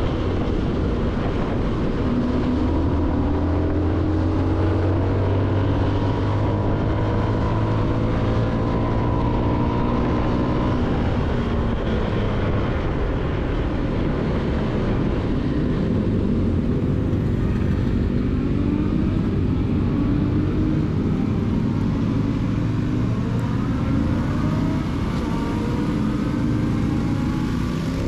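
CFMoto motorcycle engine running under way while riding. Its pitch slowly rises and falls as the revs change, over a steady rush of wind and road noise.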